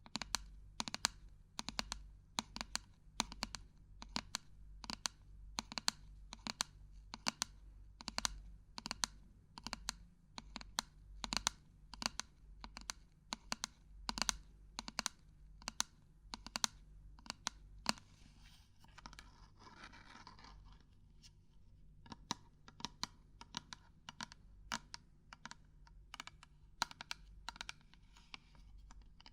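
Irregular tapping and knocking with fingertips or nails on hard objects, sharp clicks coming two to four a second. About two-thirds of the way through there are a few seconds of scratching or rustling.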